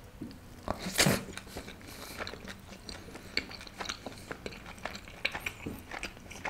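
Close-miked biting and chewing of paneer-stuffed naan: one loud bite about a second in, then a run of soft, irregular chewing clicks.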